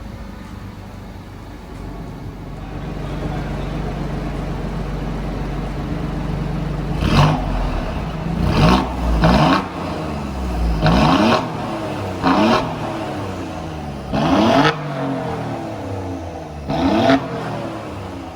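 Alfa Romeo Giulia Quadrifoglio's twin-turbo V6 running steadily, then revved in about seven short, loud blips, each a quick rise in pitch.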